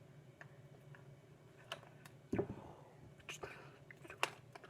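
Small cosmetics items being handled: scattered light clicks and knocks, with one louder knock about two and a half seconds in.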